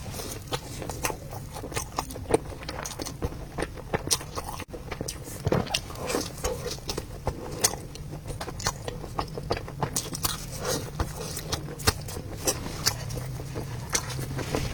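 Close-miked chewing of a soft, sticky rice ball: irregular wet mouth clicks and smacks, over a steady low hum.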